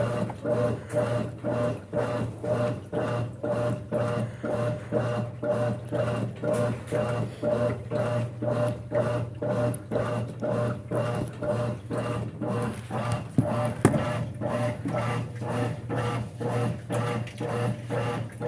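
Brastemp 5 kg top-loading washing machine in its agitation stage: a steady motor hum under a regular swishing of water and clothes, about two to three strokes a second as the agitator turns back and forth.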